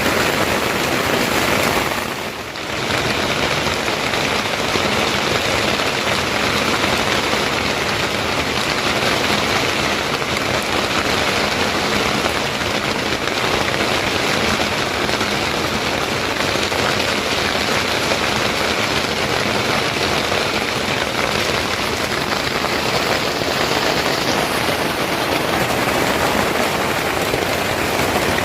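Steady heavy rain falling, a dense even hiss that dips briefly about two seconds in.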